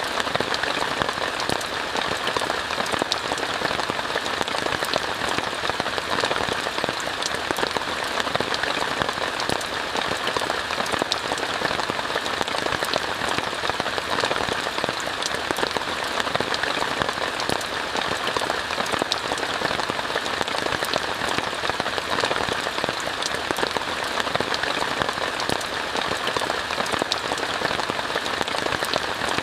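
Steady rain falling on a tent: an even hiss with many separate drop ticks, unchanging throughout.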